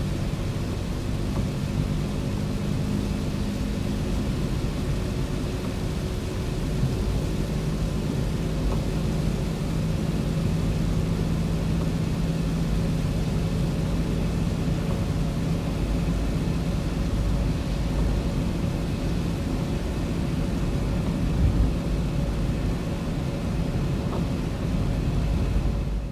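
Car driving along: steady engine and tyre noise with a low hum.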